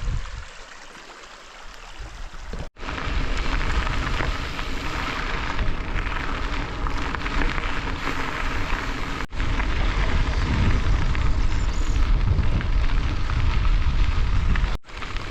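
Wind buffeting the microphone while riding a gravel bike over rough track, a steady loud rush with deep rumbling. It breaks off abruptly about three seconds in and again about nine seconds in, each time resuming at once, with a quieter stretch at the start.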